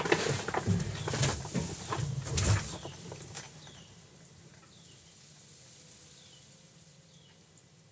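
A cluster of knocks and thumps for about the first three seconds, then a small bird giving a short, high, falling chirp about once a second.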